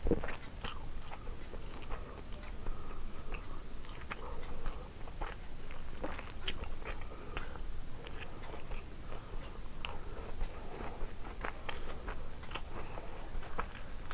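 A person biting and chewing food close to the microphone, with irregular small crunches and wet mouth clicks.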